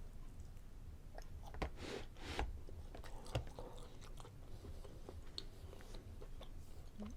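A person chewing food close to the microphone, with soft wet mouth clicks and a few louder chews.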